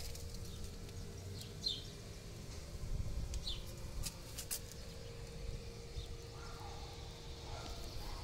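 Quiet outdoor background in which a bird gives a few short, downward-sliding chirps, spaced a couple of seconds apart. There are also a couple of light clicks near the middle, and a faint steady hum that stops about seven seconds in.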